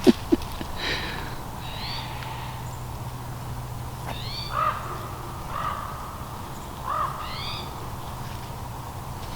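Four short, harsh animal calls, a second or two apart, over a faint steady hum.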